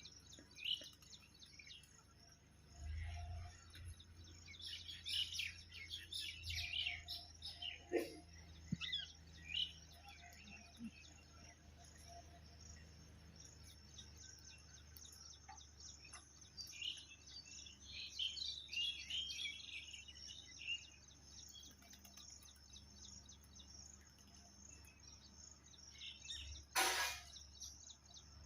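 Small birds chirping in scattered bursts of quick, high notes, over a steady low hum. There is one sharp knock near the end.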